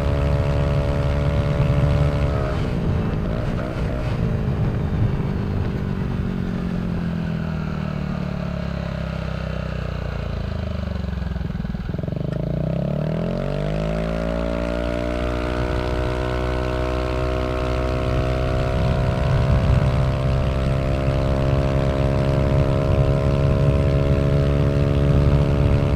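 Yamaha Aerox 155 single-cylinder scooter engine through a Villan SR1 aftermarket exhaust, ridden at high revs with the VVA engaged. A couple of seconds in the throttle eases off and the pitch falls steadily for about ten seconds; then the throttle opens again, the revs climb sharply and hold steady high as the CVT scooter accelerates.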